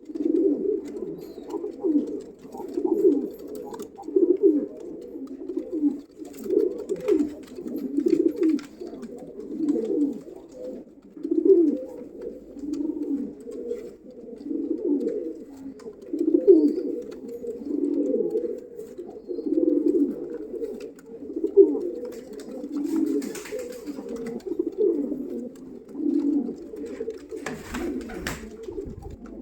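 Pigeons cooing over and over, low-pitched calls repeating every second or two. A short burst of noise comes near the end.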